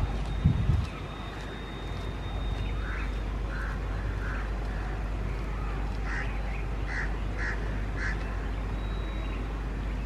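A bird gives a series of short, harsh, quack-like calls, about seven in two bunches, starting about three seconds in. They sit over a steady low rumble, with a brief low buffet of noise near the start.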